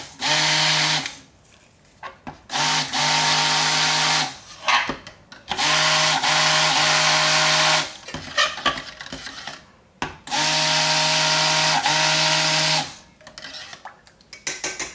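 Immersion stick blender whirring in short bursts of a second to a few seconds, stopping and starting several times, as it blends oils and lye solution into liquid soap paste.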